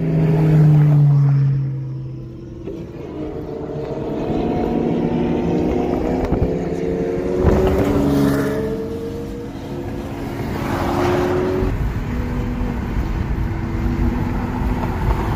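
Sports car engines revving and accelerating in surrounding traffic, heard from inside a moving car, with several engine notes sliding up and down in pitch. A loud falling engine note comes near the start, and a sharp crack about halfway through.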